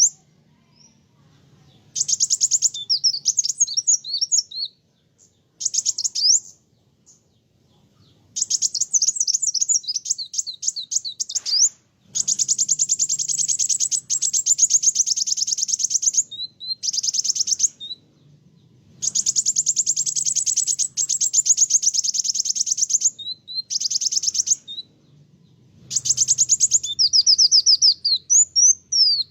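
Kolibri wulung sunbird singing eagerly: rapid, high chattering trills and quick sweeping notes in bursts of one to four seconds, with short pauses between them.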